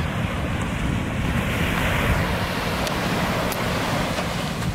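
Wind buffeting the microphone over the steady wash of small surf on a beach, with a couple of faint clicks about three seconds in.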